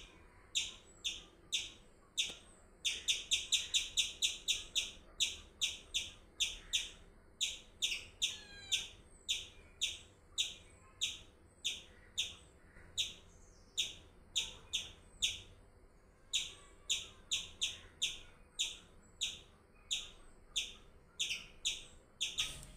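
A bird chirping over and over in short, high notes, about two a second, with a quicker run of chirps a few seconds in.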